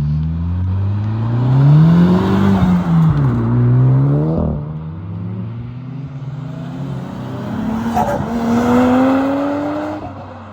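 Car engine accelerating hard: the engine note climbs, drops back about two and a half seconds in, climbs again and breaks off abruptly. A second engine run follows, its pitch climbing slowly.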